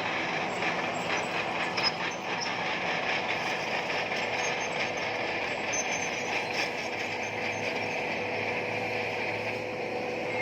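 Crawler bulldozer running under load, its diesel engine steady and its steel tracks clanking, with a steady high squeal over it and a few sharper clanks in the first couple of seconds.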